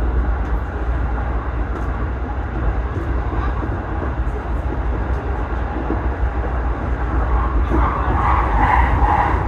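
Steady low rumble of noise inside an electric commuter train carriage on the JR Kawagoe Line, with some brighter, indistinct sounds near the end.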